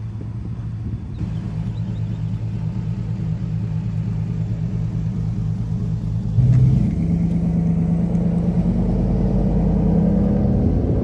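Chevy Tahoe's V8 engine running steadily, then louder about six and a half seconds in as the truck drives.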